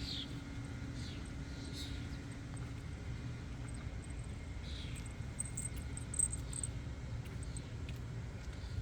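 Outdoor ambience: a steady low rumble of road traffic, with short high chirps repeating about once a second and a brief sharp click about six seconds in.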